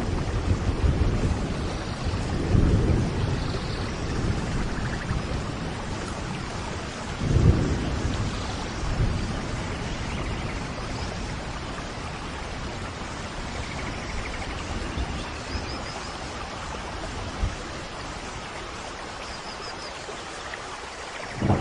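Steady rain falling, with thunder rumbling low: one swell about two and a half seconds in and a sharper, louder one about seven and a half seconds in, after which the rain goes on a little softer.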